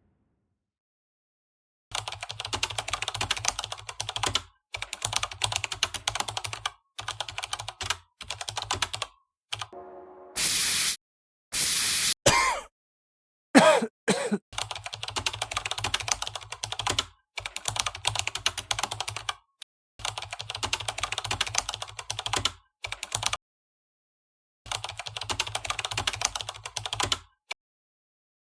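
Rapid computer-keyboard typing in runs of one to three seconds with short pauses between them. Near the middle come two brief bursts of hissing noise and a quick falling sweep.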